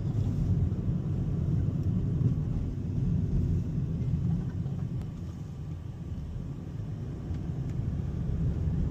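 A car's road and engine rumble heard from inside the cabin while driving: a steady low drone that eases a little midway and builds again near the end.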